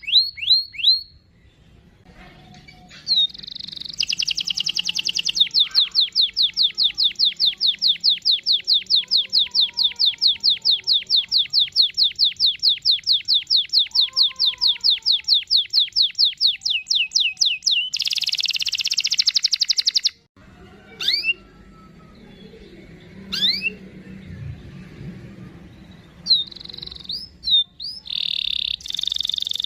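Domestic canary singing a long rolling trill of rapid, evenly repeated notes that runs for over ten seconds, then a dense harsh phrase. After a short break with a few rising chirps, the song starts again near the end.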